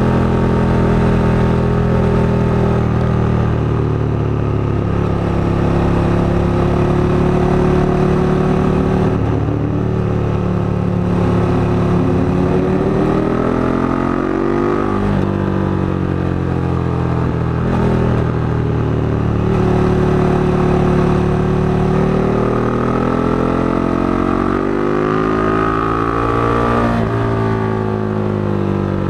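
KTM 1290 Super Duke GT's V-twin engine running under way on the road. It rises in pitch twice, about halfway and near the end, and drops back sharply each time.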